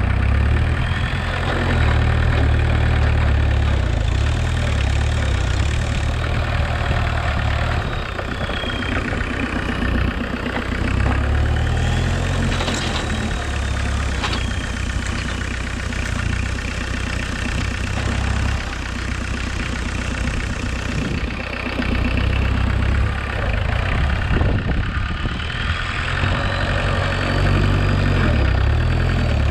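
Homemade 4x4 tractor's VW 1.6 turbodiesel engine running, its note swelling and easing every few seconds as it works. A high whine rises and falls several times over it, and a couple of sharp knocks come around the middle.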